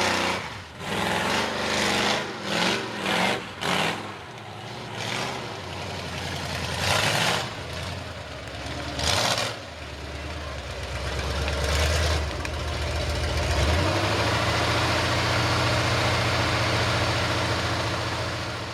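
Ford mega mud truck's 460 big-block V8 on open headers, revved in a quick string of throttle blips, then surging twice and settling into a steady, lower-pitched run.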